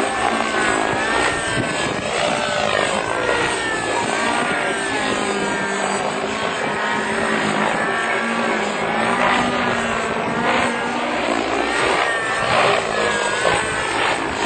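Helicopter running steadily: a continuous drone with a wavering whine above it.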